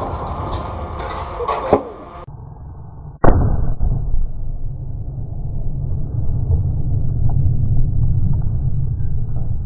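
A sharp crack about two seconds in. About three seconds in comes a loud muffled blast, then a long low rumble: a load of tannerite inside a microwave detonating when hit by a rifle shot.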